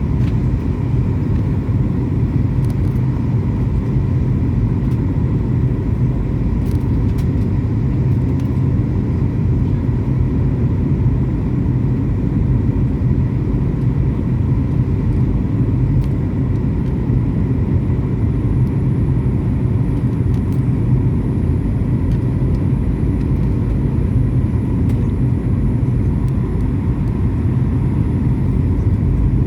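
Steady low rumble of airliner cabin noise from the engines and airflow, with a faint steady whine above it.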